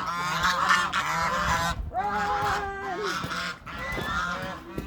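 Domestic geese honking, several overlapping calls with barely a break.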